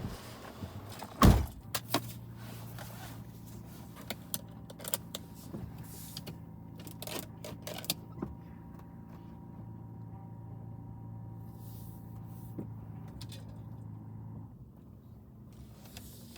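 A steady mechanical hum with a low tone and a fainter higher tone, which cuts off near the end, under scattered clicks and knocks and one loud thump about a second in.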